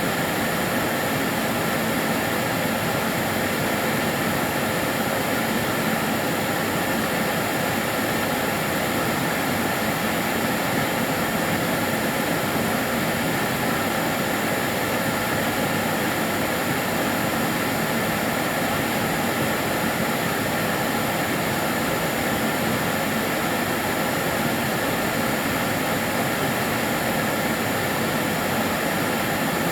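Karcher DS 6 Premium water-filter vacuum cleaner running steadily: an even rushing of the motor and airflow with a faint steady high tone, unchanging throughout.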